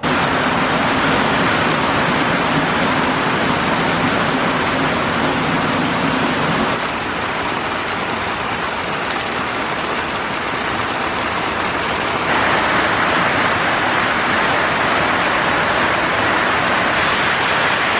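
Heavy rain pouring down in a steady, dense hiss. The hiss shifts a little in tone twice, about a third and two thirds of the way through.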